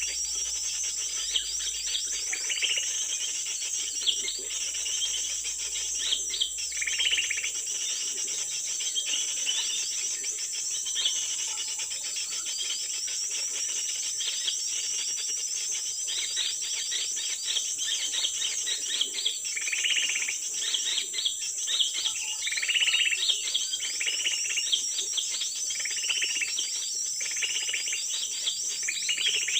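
Small birds chirping in short, repeated bursts over a steady, high-pitched drone of forest insects.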